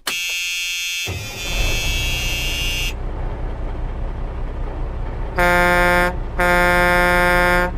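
Vehicle horns sounding over running engines: high-pitched horn toots in the first few seconds, then two long blasts of a deeper truck air horn, the second starting just after the first ends.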